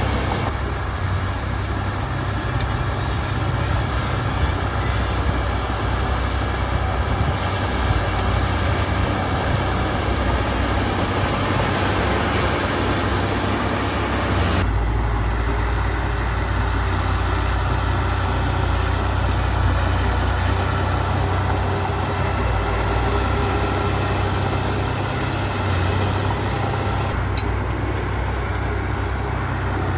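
Heavy diesel earthmoving machinery running steadily, its engine a continuous low rumble. The sound changes abruptly about halfway through, turning duller.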